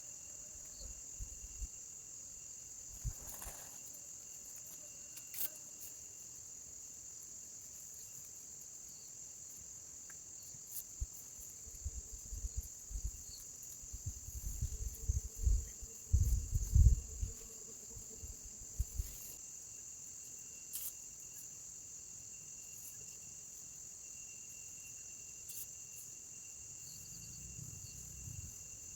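Steady high chirring of insects, crickets, all through. In the middle comes a cluster of low thumps and bumps, loudest about two-thirds of the way in.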